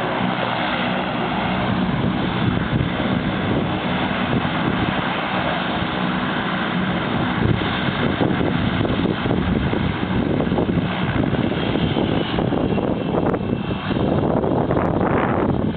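Turboprop engine and propeller of a Cessna 206 running: a steady drone with held tones for the first several seconds, turning rougher and noisier about halfway through.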